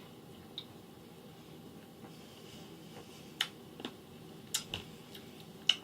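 Faint eating sounds: about half a dozen short clicks and smacks, scattered, over a quiet steady room hum.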